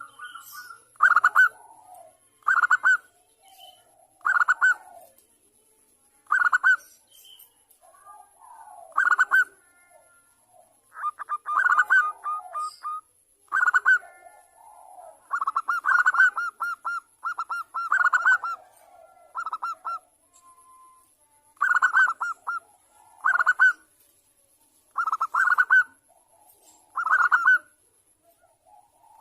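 Zebra dove (perkutut) cooing in short rolling phrases of rapid staccato notes, repeated every one to two seconds, with a few longer runs in the middle. It is a lure call for getting other zebra doves to answer, put out as a female calling a male.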